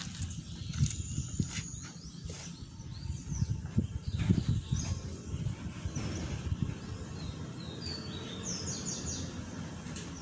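Birds chirping outdoors, with short high calls and quick runs of notes in the second half, over an uneven low rumbling noise.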